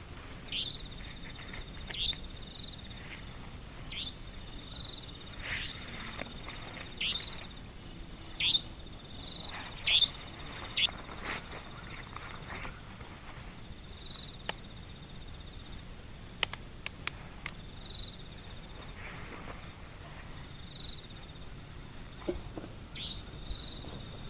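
Forest ambience: insects trill steadily on one high tone while an animal's short, downward-falling call repeats every second or two, with a few sharp ticks around the middle.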